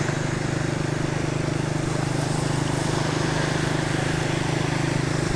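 Motorcycle engine running steadily at cruising speed with a fast even pulse, under a steady rush of wind and road noise.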